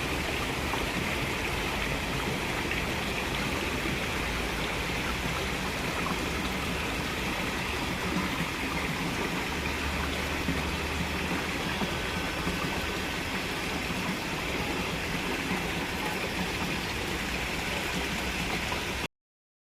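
Water fountain splashing steadily, a continuous rush of falling water.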